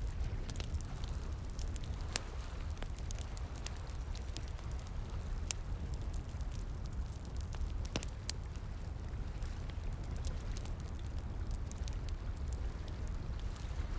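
Wood fire crackling, with irregular sharp pops and snaps (the strongest at about two, five and a half and eight seconds in), over a steady low rush of flowing water.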